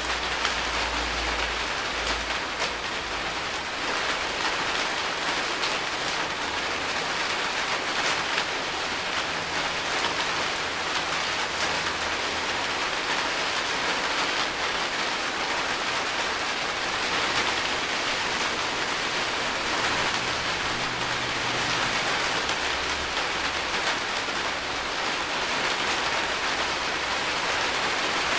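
Steady rain falling in a thunderstorm, an even dense hiss of drops on surfaces, with faint low rumbles now and then underneath.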